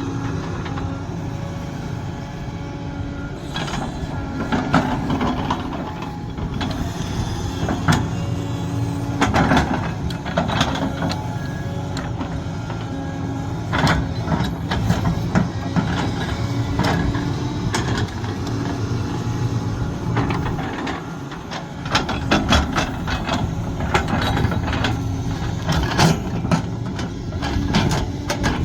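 Sumitomo SH370LHD-6 excavator's diesel engine running steadily under load, with repeated sharp metallic clanks and knocks from the machine at work.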